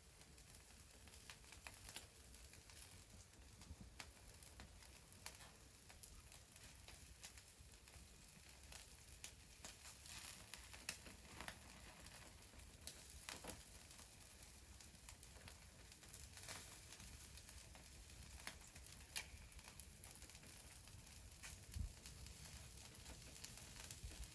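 Faint crackling of a wood fire: sharp, irregular pops and snaps over a quiet background.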